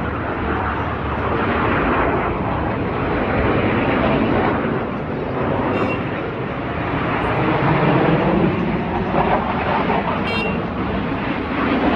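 Jet engine noise from the Black Eagles' KAI T-50B aerobatic jets flying the display: a steady, loud rushing sound that swells and eases slightly, with two brief ticks.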